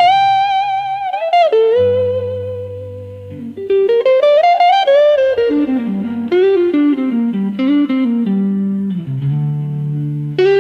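Slow blues electric guitar lead playing a melody that holds notes and glides between them, over a low bass line.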